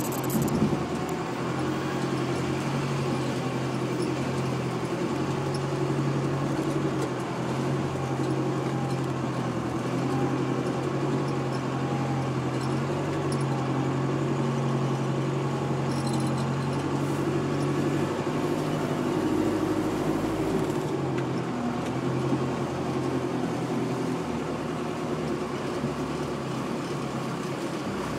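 Jeep engine running steadily at low speed as it crawls over a rocky off-road trail, a low even hum, with a brief knock about half a second in.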